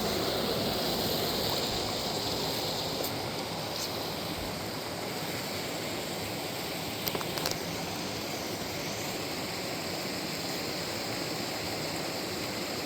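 Steady rush of flowing water, with a few faint clicks about seven seconds in.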